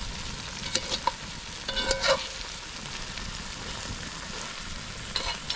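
Sausages, peppers and onions sizzling steadily in a pan over a campfire, with a few short pops.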